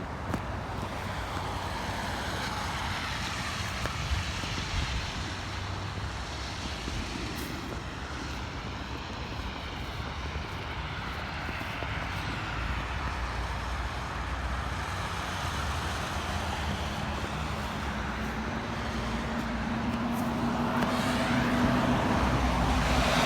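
Traffic noise from motor vehicles on a road, with one vehicle drawing closer and louder over the last few seconds.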